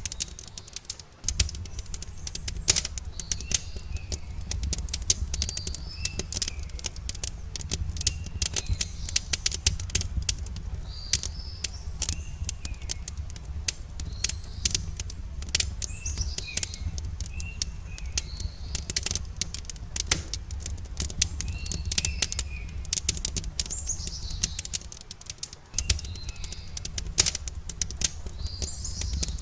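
Wood campfire crackling with many sharp pops over a low steady rumble, while birds chirp repeatedly with short calls.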